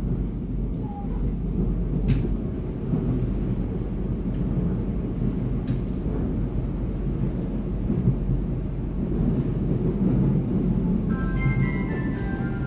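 Ride inside a moving electric train: a steady low rumble of the wheels and running gear, with two sharp clicks about two and six seconds in. Near the end a simple melody of short high notes starts up.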